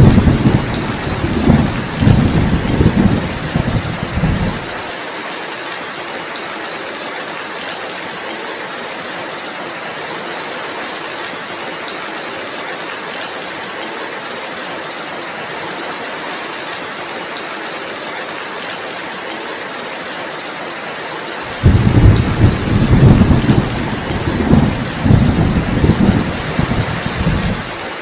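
Steady heavy rain hiss with two spells of rolling thunder: deep rumbles that fade out about five seconds in, then return about twenty-two seconds in and run until just before the end.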